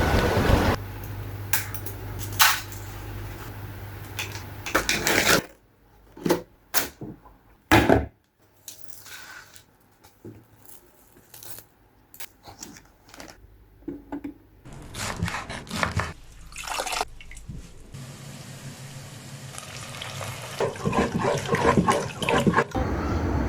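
Water running and dripping, with scattered sharp drips and splashes in a quieter stretch in the middle.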